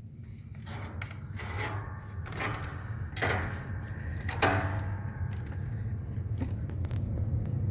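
Irregular knocks and clatters of movement and handling, several in the first five seconds and lighter clicks after, over a steady low rumble.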